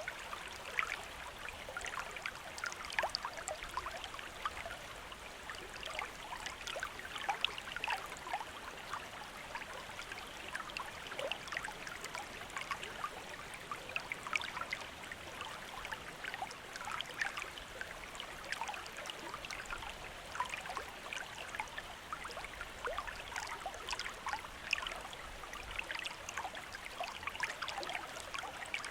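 A small river or stream running over stones: a steady babble of water, full of small irregular splashes and gurgles.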